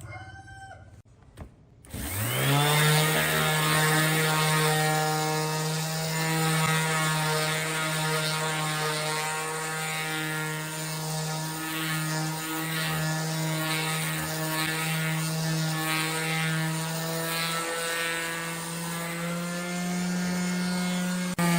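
An electric woodworking power tool switches on about two seconds in, its motor spinning up quickly to speed, then runs steadily with a strong hum, rising a little in pitch near the end.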